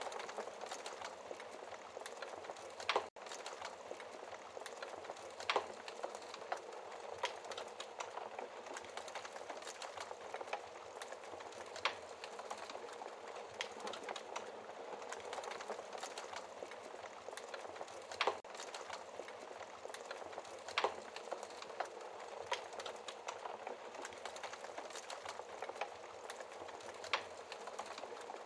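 Wood fire burning in a fireplace: a steady soft hiss with sharp crackles and pops every few seconds. The sound drops out for an instant just after a loud pop about three seconds in.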